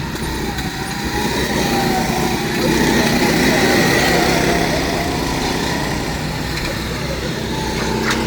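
Small, high-revving engines running at a go-kart track, their pitch wandering up and down and growing a little louder about three seconds in.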